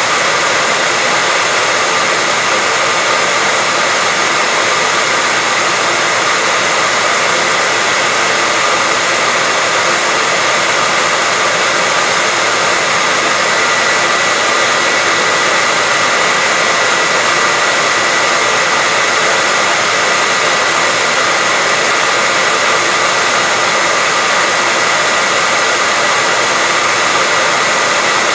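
Hair dryer running steadily as a sleep sound, a loud, even rush of air with a constant high whine from its motor.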